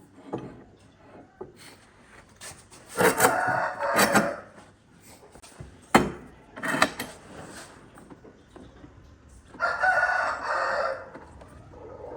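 Rooster crowing, two long crows several seconds apart, with a sharp knock between them.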